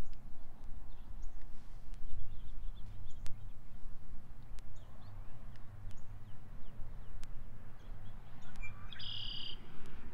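Songbirds chirping with short scattered calls, and one louder buzzy call of under a second near the end, over a low steady outdoor rumble.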